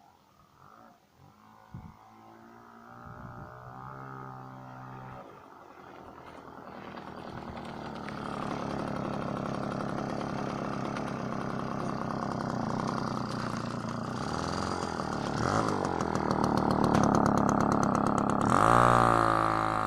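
Freshly rebuilt Puch E50 single-cylinder two-stroke moped engine on its first start and run, faint at first and growing louder over the first eight seconds, then running steadily, with a sharp rev near the end.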